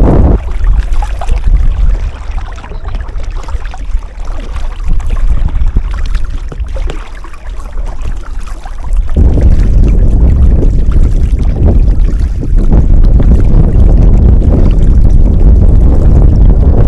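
Strong gusting wind buffeting the action camera's microphone, a loud low rumble. It eases about half a second in and comes back in full about nine seconds in.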